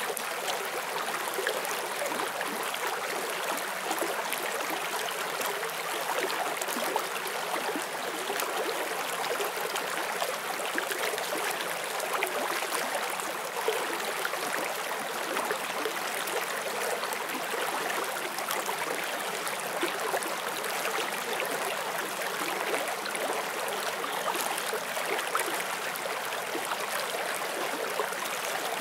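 Forest stream running over stones: a steady rush of flowing water with constant small splashes and gurgles.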